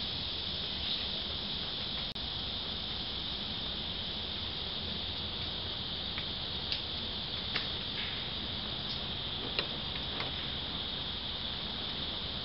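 Steady, high-pitched chorus of insects trilling, like crickets, with a few brief sharp chirps from birds at the feeder about halfway through.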